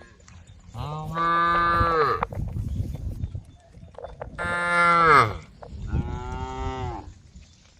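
Cows mooing: three long moos, one about a second in and two close together past the middle, the middle one the loudest, each dropping in pitch as it ends.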